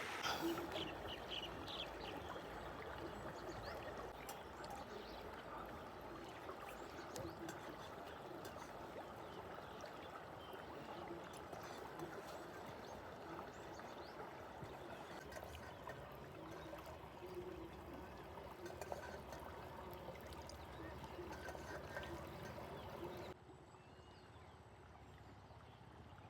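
River water flowing in a steady rushing hiss, with a few small clicks. About three seconds before the end it drops suddenly to a quieter, duller hush.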